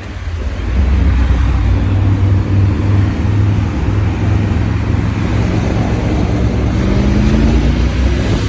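Motorcycle engine running under way with a heavy low rumble, getting louder just under a second in; its pitch climbs through the second half as the bike accelerates.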